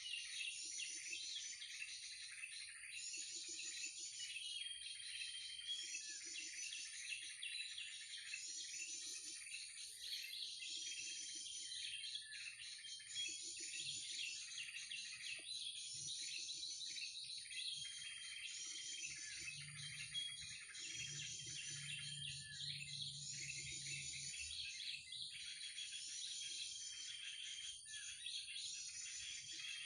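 Dense chattering and chirping bird calls, repeating in an even cycle of about one and a half seconds: a looped bird-call lure mixed with yellow-vented bulbul (trucukan) calls, played to draw wild birds to a trap. A steady high-pitched whine runs under it.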